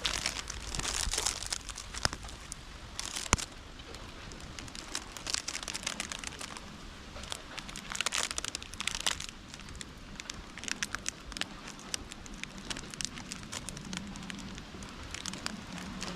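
Campfire crackling, with irregular sharp pops and short bursts of hissing.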